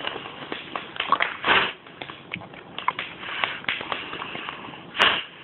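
Dog gnawing at a hard ice cube: teeth and ice clicking and knocking irregularly, with louder knocks about a second and a half in and near the end.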